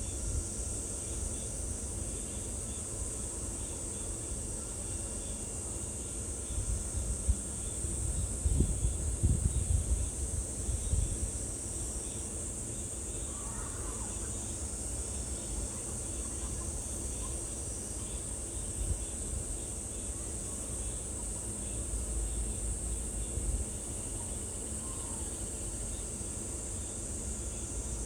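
Steady, high-pitched chorus of insects droning without a break, over a low rumble that swells about a third of the way in. A couple of faint short bird calls come through about halfway and near the end.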